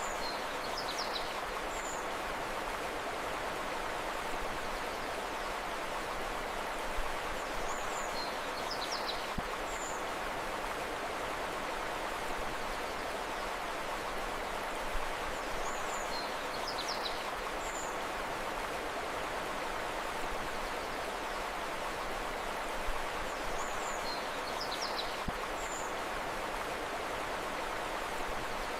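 Steady rush of flowing river water, with a brief cluster of high bird chirps that comes back in the same form about every eight seconds, as in a looped recording.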